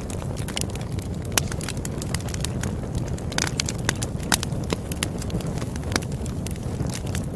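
Campfire crackling, with irregular sharp snaps several times a second over a steady low rumble of burning.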